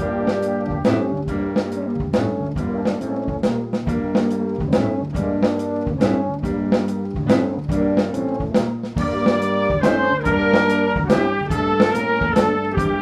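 Band music with trumpets and trombones playing sustained chords over a steady drum-kit beat, in a jazzy style.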